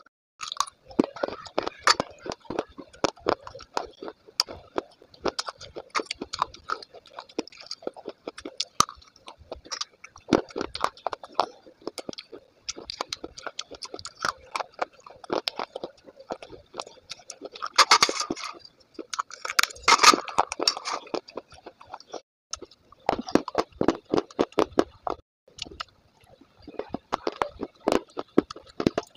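Hard baked clay being bitten and chewed: dense, irregular crunching and crackling, with two louder spells of crunching a little past the middle.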